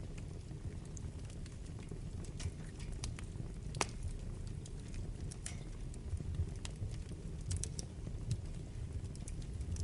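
Wood fire burning in a fireplace: a steady low rumble of flames with scattered sharp crackles and pops, the loudest pop a little before four seconds in and a quick cluster of snaps near the end.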